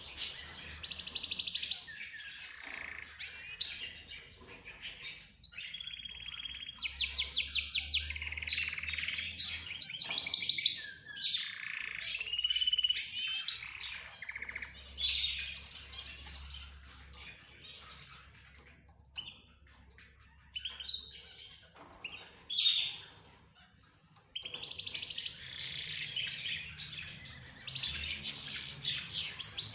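A mix of caged pet birds (budgerigars, lovebirds, zebra finches and a canary) chirping, chattering and trilling over one another, in bursts with short lulls.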